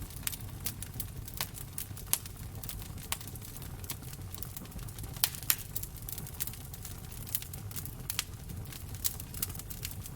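Wood fire crackling in a fireplace: irregular sharp pops and snaps over a steady low rumble of the flames, with two louder pops about five seconds in.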